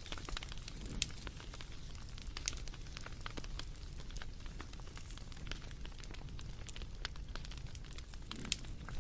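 Wood fire crackling: irregular snaps and pops over a steady low rumble, with sharper pops about a second in and near the end.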